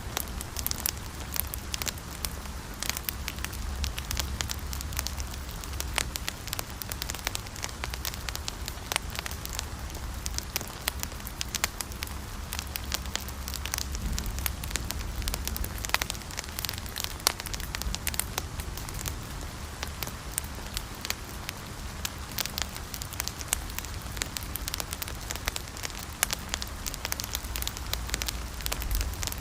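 Fire crackling: a dense, irregular run of sharp pops and snaps over a low steady rumble.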